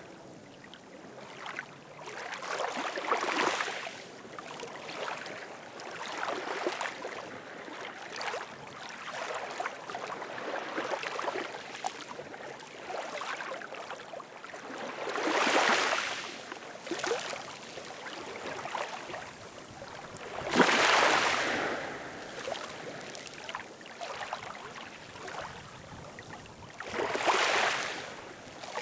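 Ocean waves washing in and drawing back, rising and falling, with four louder swells of surf.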